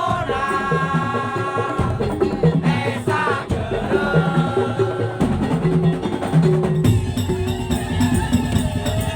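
Madurese tong-tong (daul) ensemble playing: bamboo slit drums and drums beat a repeating rhythm while a high melody with sliding notes plays over it. The percussion grows denser near the end.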